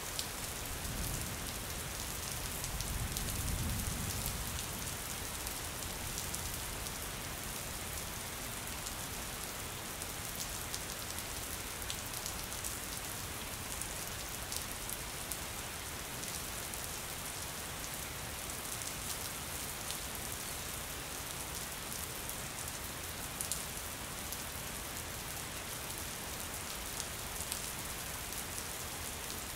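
Steady rain falling, with scattered drop ticks. A low rumble swells briefly a few seconds in.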